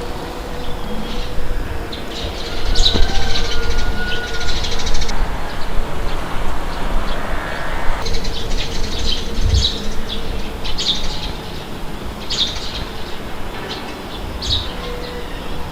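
Wind blowing with a steady low rumble, while small birds chirp in short, scattered calls. A faint steady hum sits beneath them.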